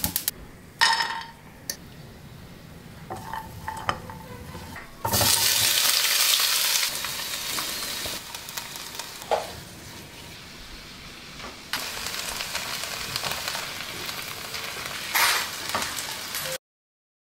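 Chopped tomatoes and onions sizzling in oil in a nonstick frying pan, stirred with a silicone spatula that gives a few light knocks against the pan. The sizzle starts loud and suddenly about five seconds in, eases, swells again later, and cuts off just before the end.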